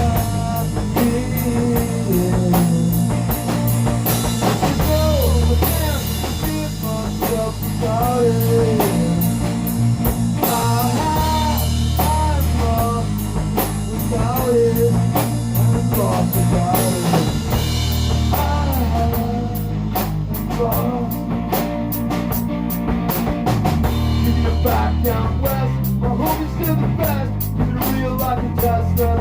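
Rock-blues band music, tuned half a step down: a lead line with bent notes over a drum kit and low bass notes that change every second or two.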